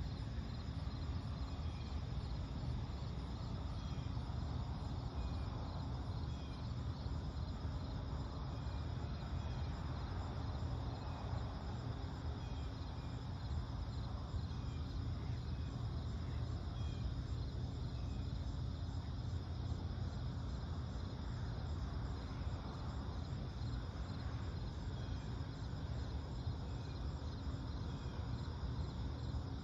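Pre-dawn lakeside night ambience: insects trilling steadily at a high pitch, with small scattered chirps, over a steady low rumble.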